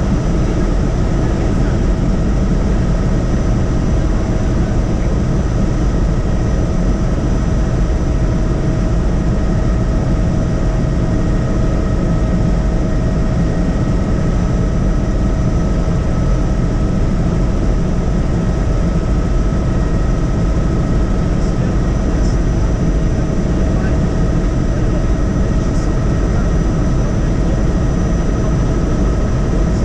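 Helicopter in flight heard from inside the cabin: a loud, steady engine and rotor drone with several high, steady whines over it.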